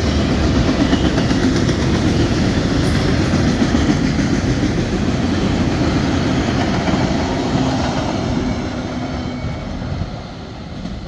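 Freight train rolling past with a steady loud rumble of wheels on rail, dropping away about ten seconds in as the last cars go by.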